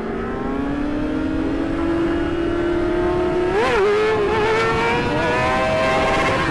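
Sport motorcycle engine, the Yamaha R6's inline-four, pulling under acceleration with its pitch climbing steadily, then a quick blip of revs a little past halfway before it holds a steady note. Wind and road rush run underneath.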